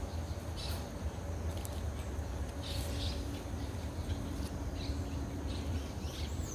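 Birds chirping in short calls every second or so over a low, steady rumble.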